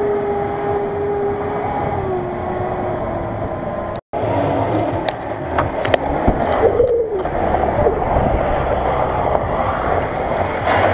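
Off-road 4x4 engines running in deep mud. First a steady engine note that drops in pitch about two seconds in. After a cut, a rougher engine sound rises briefly in revs as a vehicle is pulled out of the mud on a tow strap.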